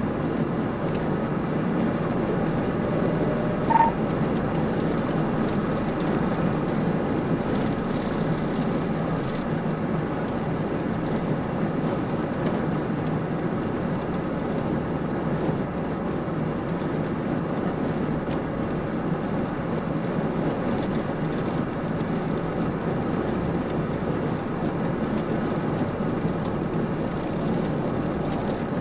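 Patrol car driving at highway speed, about 80 mph: a steady drone of tyre, wind and engine noise heard inside the cabin. A short beep sounds about four seconds in.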